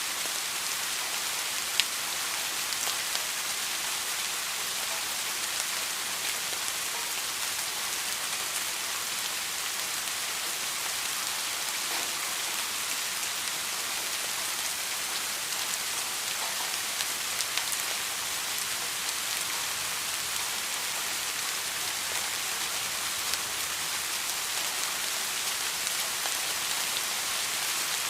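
Steady rain falling on a surface: an even hiss with scattered louder drops, one sharp drop about two seconds in.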